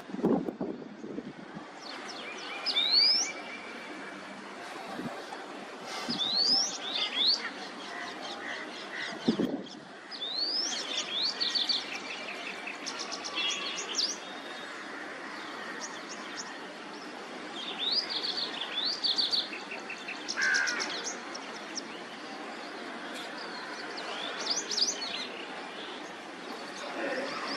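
White-browed wagtail singing: phrases of quick rising whistles and short rapid trills, coming in bursts every few seconds over a steady background hiss. A brief low thump about nine seconds in.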